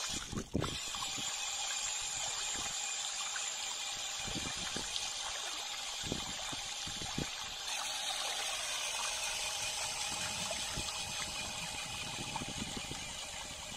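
Running water, a steady trickling hiss, with scattered faint low knocks.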